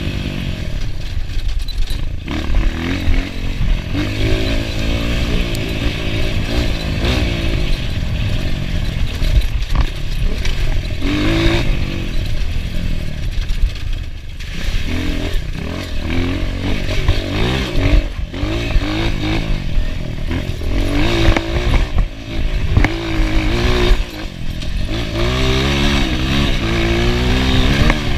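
Enduro dirt bike engine revving up and down as it is ridden, its pitch rising and dropping every second or two over a steady low rumble.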